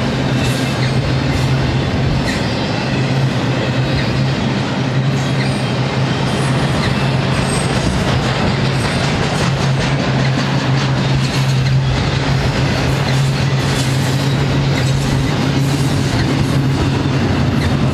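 Double-stack intermodal well cars rolling past: a steady rumble and clatter of steel wheels on rail with scattered clicks, over a steady low hum.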